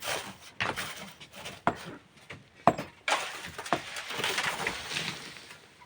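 Hammer blows striking rock, sharp knocks at an uneven pace about a second apart, as large volcanic stones are broken up by hand. From about three seconds in, a longer gritty scraping rush joins the knocks.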